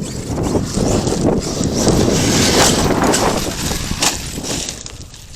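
Arrma Kraton 8S RC monster truck driving over rough, rocky dirt, with a dense, uneven rush of tyre and gravel noise that dies down near the end.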